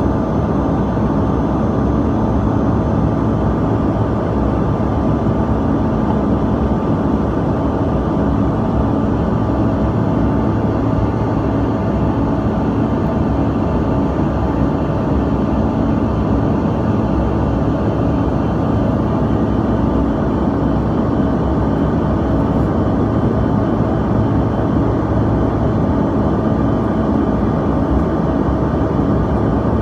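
Steady cabin noise of a Bombardier CRJ-200 in flight: the even rush of air and the hum of its two rear-mounted GE CF34 turbofans, with a few steady engine tones running through it.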